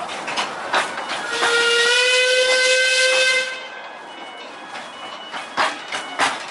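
Steam whistle of the 591 mm gauge 0-4-0 tank engine No. 2 Bevan: one long blast of about two seconds starting a little over a second in, rising slightly in pitch as it opens, over a hiss of steam. After the whistle cuts off, a quieter hiss with a few sharp knocks.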